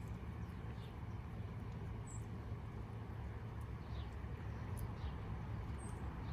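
A steady low rumble with faint, brief high bird chirps a few times, some falling in pitch.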